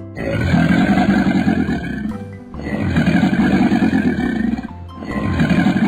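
Crocodile growl sound effect, three long rough growls of about two seconds each, over background music.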